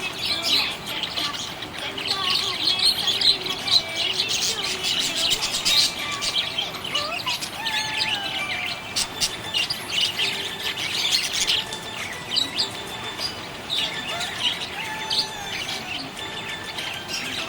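Several budgerigars chirping and warbling together: a dense, continuous chatter of short high chirps, with a few longer whistled notes that slide in pitch.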